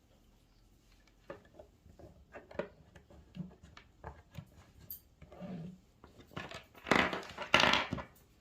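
Light clicks and knocks of small objects being handled, then two louder, longer noises near the end, each about half a second.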